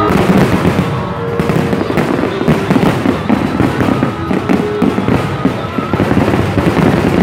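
Aerial fireworks bursting overhead in a rapid, continuous barrage of bangs and crackling, with music playing underneath.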